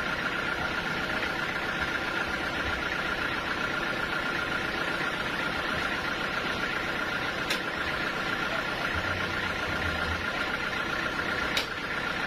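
Sawmill machinery running steadily, with a constant high whine over an even mechanical noise and two short clicks, one in the middle and one near the end.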